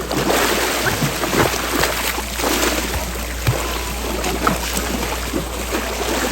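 Seawater sloshing and splashing, with many short splashes over a steady noisy wash.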